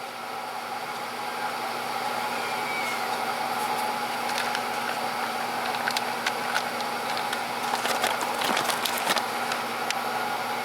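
Old transformer-type battery charger powering an electrolysis rust-removal bath, giving a steady electrical hum and hiss, with scattered crackling clicks through the middle.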